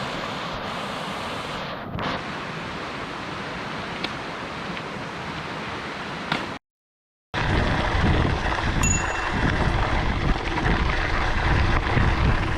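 Steady rushing noise of wind and tyres while riding a mountain bike along the trail. After a brief dropout it gives way to louder, gusty wind buffeting the microphone.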